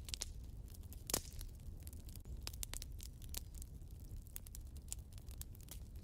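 Wood fire in a fireplace crackling: many irregular sharp pops and snaps over a steady low rumble, with one louder pop about a second in.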